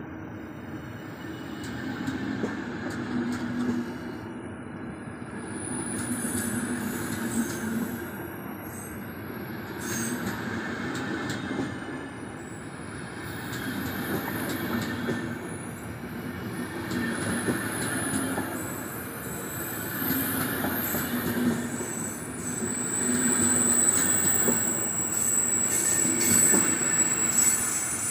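Passenger train moving through the station, its wheels squealing in high thin tones that set in about halfway and grow stronger near the end as the sound gets louder.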